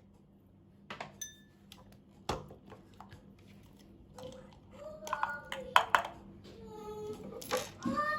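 Kitchen dishes and cutlery clinking: a few separate clicks, one ringing like a tapped glass or cup about a second in, and a heavier knock a little after. From about halfway, high vocal sounds that rise and fall in pitch come in and grow louder toward the end.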